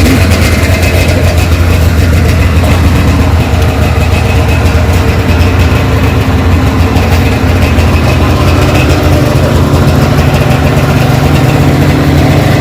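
Small engine idling steadily, with a slight change in its tone about nine seconds in.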